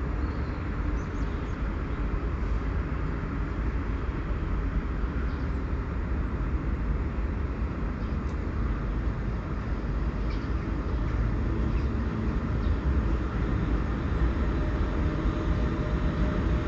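Electric passenger train approaching along the track: a low rumble that grows slowly louder, with a steady hum coming in over the last few seconds as it nears.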